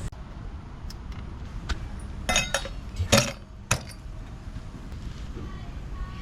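A few sharp clinks and knocks, like utensils, cookware or glassware being handled, the loudest a little after three seconds in.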